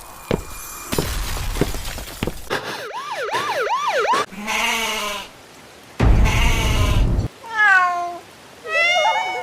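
Cat sound effects: four short rising-and-falling meows in quick succession, then two loud rushes of noise. Near the end come a falling call and a wavering goat-kid bleat.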